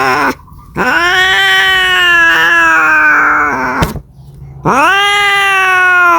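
Domestic cat yowling in long, drawn-out caterwauls: one call cuts off just after the start, a second lasts about three seconds, rising quickly then sliding slowly down, and a third begins about two-thirds of the way in. This is the kind of yowl a cat makes when calling for a mate.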